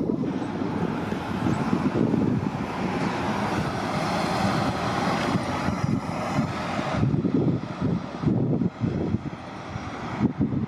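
City transit bus going past, its engine and road noise swelling to a broad rush in the middle and then dropping away, with uneven low rumbling gusts near the end.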